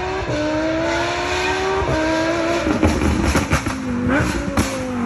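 V12 sports car exhaust under hard acceleration, rising in pitch with two sharp drops at upshifts, about a third of a second in and near two seconds. From about three seconds in the revs fall and the exhaust crackles and pops.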